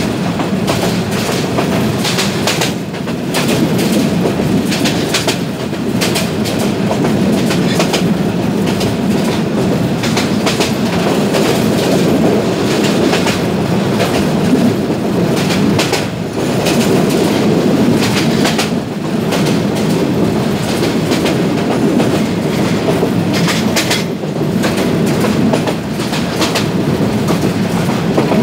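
Jamalpur Commuter passenger train running at speed, heard from aboard the coach: a steady rumble of the carriage with fast, uneven clickety-clack of the wheels over rail joints.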